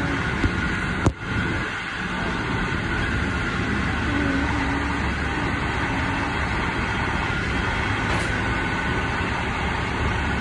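Moving passenger train heard from inside a coach: a steady running noise of wheels rolling on the rails at speed, with a faint steady whine. A short click, then a sharp knock about a second in.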